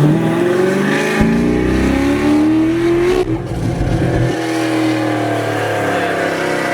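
Cammed V8 car with a manual gearbox accelerating hard: the engine revs climb for about three seconds, a quick upshift, a short second pull, then the throttle comes off and the engine settles to a steady cruise. Heard from inside the cabin.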